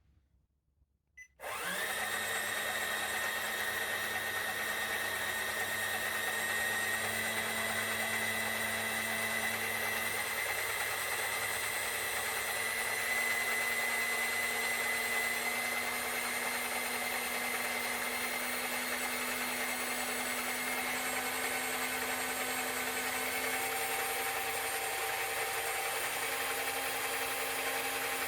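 A CaDA M motor, a small Power Functions-compatible electric motor, starting about a second and a half in and then running steadily with no load and a high whine.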